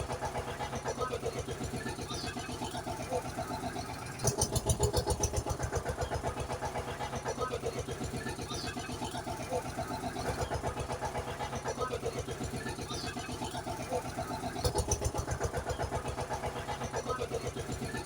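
Small vehicle engine running with a fast, even putter, like an auto rickshaw. The pattern repeats every couple of seconds, and it swells louder about four seconds in and again near fifteen seconds.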